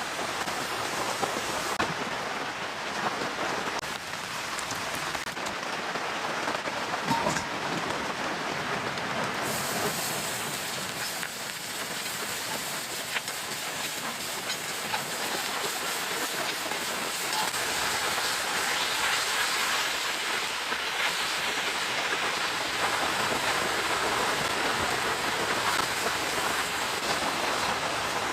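Steady rain falling, a dense patter of drops with a few louder drips standing out, growing a little heavier about two-thirds of the way through.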